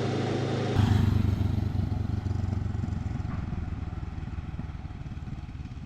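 Honda CB500X parallel-twin motorcycle engine running on the move, mixed with wind and road noise. About a second in the sound steps up, then grows gradually quieter.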